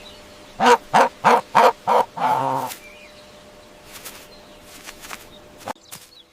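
Domestic fowl calling: five short, sharp calls in quick succession, then one longer drawn-out call, followed by a few faint clicks.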